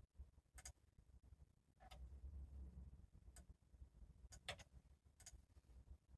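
Near silence with a handful of faint, short clicks at uneven intervals, two of them in quick succession about four and a half seconds in, over a low steady hum.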